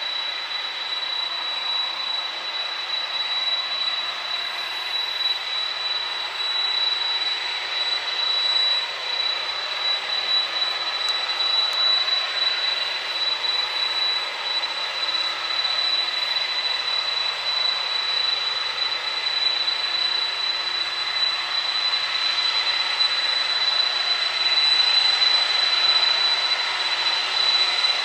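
Engines of a four-engine jet airliner running steadily at high power, a broad rushing noise with a constant high-pitched whine, growing a little louder near the end.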